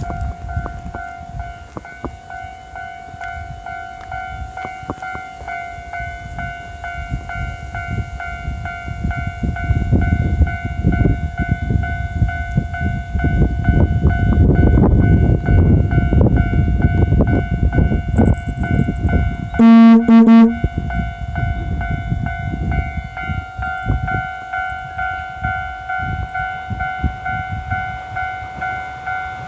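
KiHa 47 diesel railcar approaching and passing, its engine rumble and wheel clicks growing loud in the middle, with a short horn blast about two-thirds of the way through. A steady ringing tone sounds throughout.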